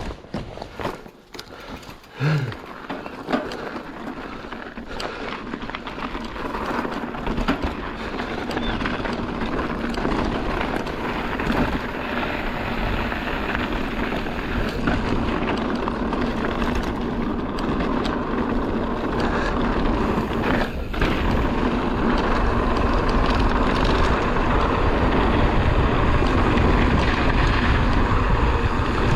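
Mountain bike on a dirt trail: knocks and rattles over rough ground in the first few seconds, then a steady rush of tyre and wind noise that grows louder as the bike picks up speed.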